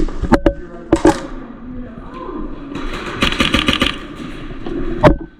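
Airsoft guns firing: a few single snapping shots in the first second, a rapid burst of about seven shots a little after the middle, and one last shot near the end.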